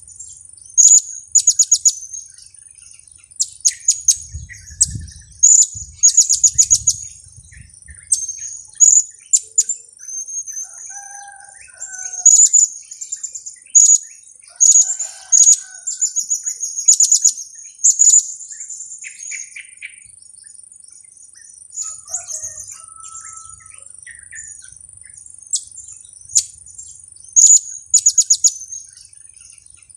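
Blue-crowned hanging parrots (serindit) giving their sharp, very high 'kiak-kiak' calls in quick runs of several notes, again and again.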